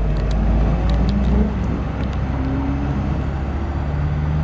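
A car's engine running at a steady cruise, with tyre and road noise, heard from inside the cabin. The engine eases off slightly about a second and a half in.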